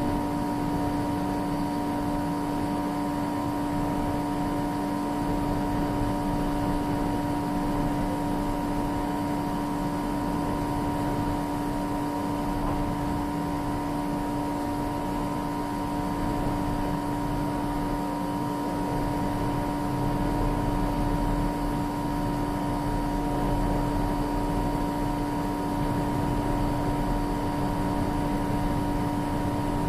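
A steady mechanical drone at a constant pitch over a hiss, with no bangs or bursts.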